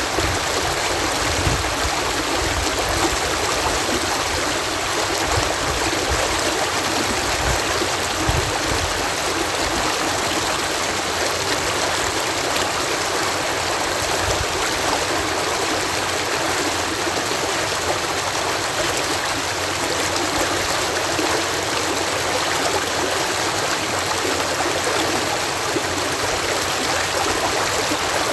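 Water cascading steadily through a canal lock: a continuous, even rush of falling water.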